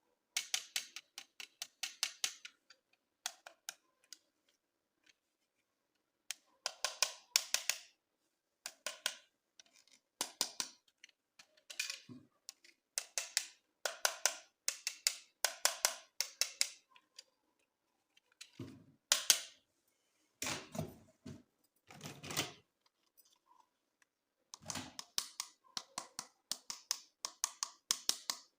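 Plastic toy packaging and parts being handled: bursts of rapid, crisp clicks and crackles broken by short silences, with a few heavier knocks in the second half.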